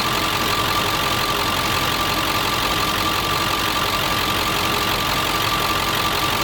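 Ford 7.3 Powerstroke turbo-diesel V8 idling steadily, with a thin high whine over the engine's running.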